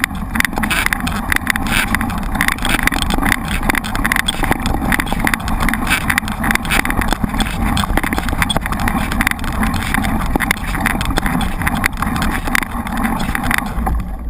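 Mountain bike riding over rough ground, recorded on a bike-mounted camera: steady wind on the microphone with a constant stream of rattles and knocks from the bike and the camera mount.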